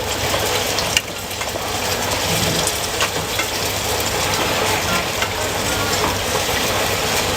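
Food frying and sizzling in hot oil at a street-food stall, a steady hiss with scattered sharp clicks.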